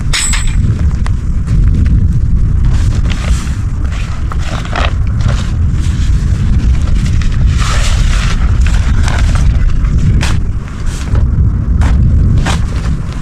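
Strong wind buffeting the microphone with a loud, continuous low rumble, with scattered crackles and rustles over it.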